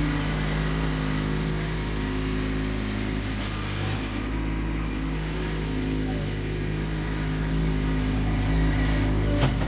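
Kubota B2601 compact tractor's three-cylinder diesel engine running steadily, with a sharp knock near the end.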